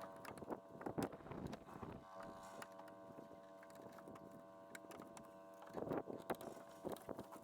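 Faint steady machine hum, holding several even tones, under scattered clicks and knocks that cluster more thickly near the end.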